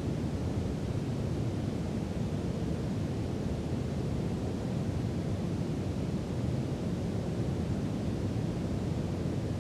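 Steady brown noise: an even, deep rushing hiss weighted to the low end, with no change in level.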